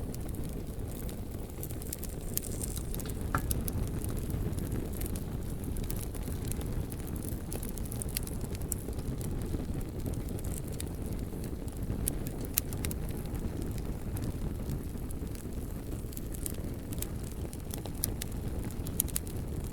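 Campfire burning, with frequent small crackles and sharp pops scattered irregularly over a steady low rumble.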